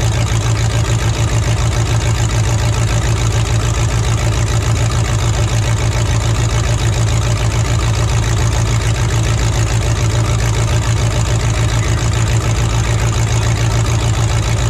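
Demolition derby truck engine idling steadily, a low, evenly pulsing rumble with no revving.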